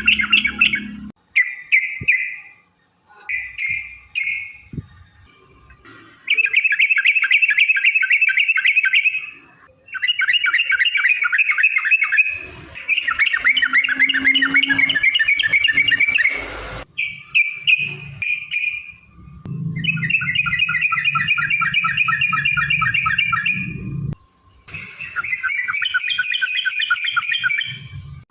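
Yellow-vented bulbul (trucukan) singing in long, rapid bubbling phrases of about one to four seconds each, repeated about eight times with short pauses: the 'ropel' song used to provoke other bulbuls into answering.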